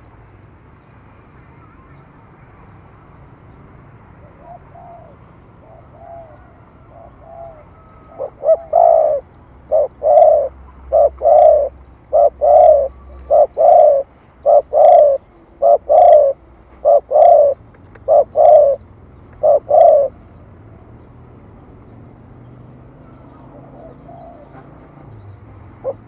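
Spotted dove cooing in the urgent, repeated 'thổ thúc gù' style: a few faint coos about 4 to 7 seconds in, then a run of about a dozen loud, evenly spaced coos from about 8 to 20 seconds in.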